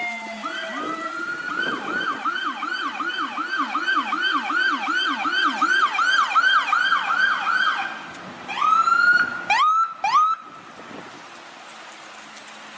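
American police car electronic siren: the end of a falling wail, then a fast yelp of about two to three rising-and-falling sweeps a second. Near the end it gives a rising wail and two quick rising whoops, then cuts off suddenly about ten seconds in, leaving only steady background noise.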